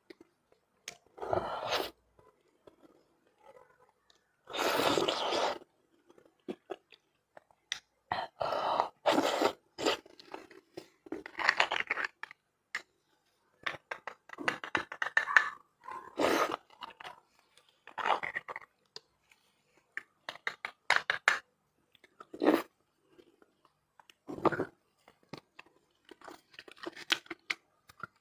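Close-miked eating: a person biting into and chewing a saucy piece of food, in irregular bursts of chewing with short pauses between.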